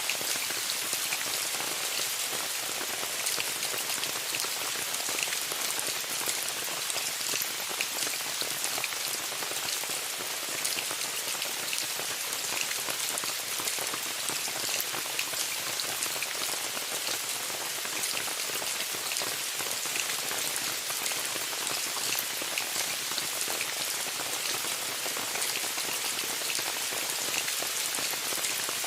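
Steady rain falling on a tent: a dense, even hiss with countless sharp taps of single drops, and no letup.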